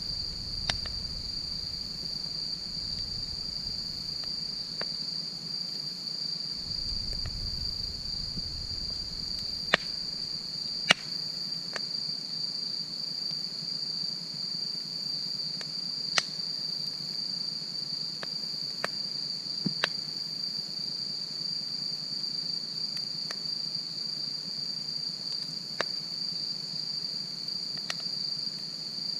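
Wood fire crackling, with a few sharp pops, over a steady high chirring of crickets. A low rumble fades out about eleven seconds in.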